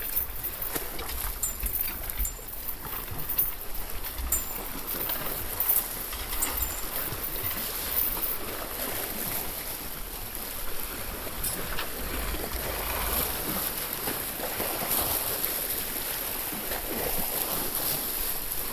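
Water sloshing and lapping against a boat's hull, an irregular splashing hiss, with a few light knocks in the first seconds and a low rumble coming and going.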